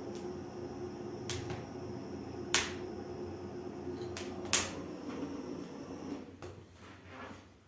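Wood fire burning in a newly built brick fireplace: a steady low rush broken by a few sharp pops of crackling firewood, the loudest about four and a half seconds in.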